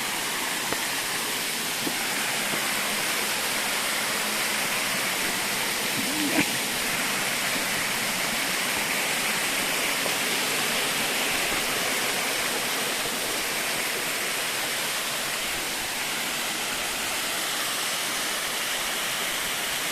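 Waterfall: a steady, unbroken rush of falling water. A brief vocal sound is heard about six seconds in.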